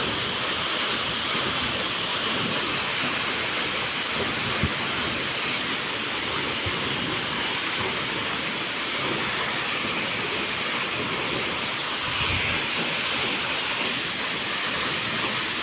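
Waterfall rushing: a steady, even roar of falling water, with a brief low thump about five seconds in.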